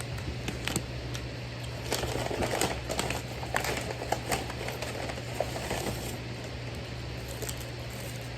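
Paper fast-food wrapper crinkling and rustling, with sharp little clicks, about two to six seconds in, over a steady low hum.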